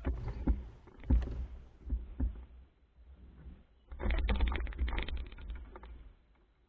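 Wind buffeting the microphone in gusts aboard a small sailing dinghy under way, with scattered knocks and clatter from the boat, loudest about four to five seconds in.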